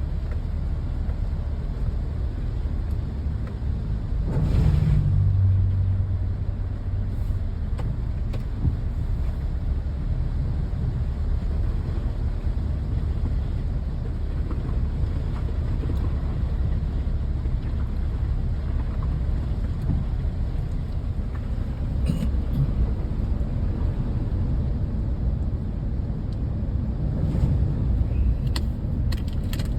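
Steady low rumble of rainy-day outdoor ambience, with a vehicle passing about four seconds in, its engine note dropping in pitch as it goes by. A few faint clicks near the end.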